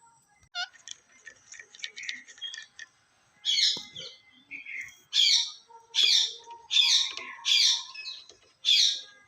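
Parrot calling: soft chatter at first, then a run of about seven loud, harsh squawks, roughly one every 0.7 seconds.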